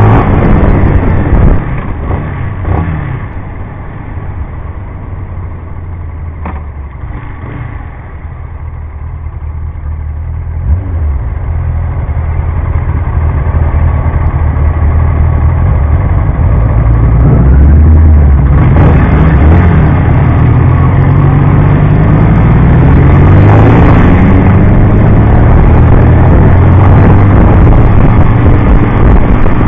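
Honda CBR125's single-cylinder engine heard from an onboard camera. It is quieter for a stretch early on, then revs up with rising pitch about two-thirds of the way through and runs steadily and loudly at road speed near the end.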